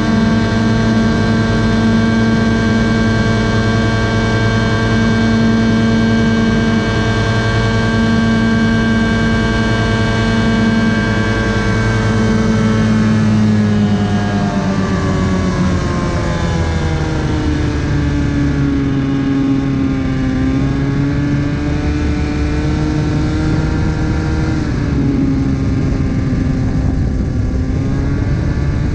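Star Flight TX 1000 ultralight's Rotax 377 two-stroke twin engine running steadily at a constant pitch, then its note falls gradually about halfway through and wavers at the lower pitch for the rest.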